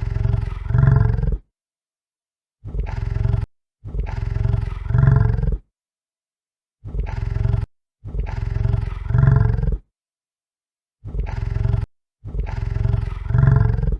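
A large animal's low, deep call in pairs, a short call followed by a longer one, repeated identically three times with complete silence between the pairs.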